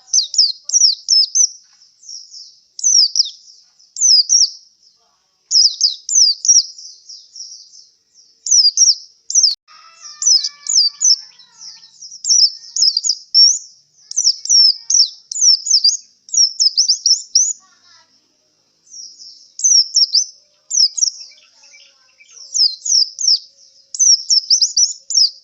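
Male pleci (white-eye) singing: quick high twittering phrases of rapid chirps, repeated again and again with short pauses between them. The keeper takes this song for that of a bird tired after a song contest.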